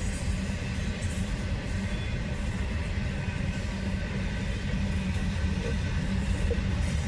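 Long freight train rolling past: a steady rumble of wheels on rail with no change in level.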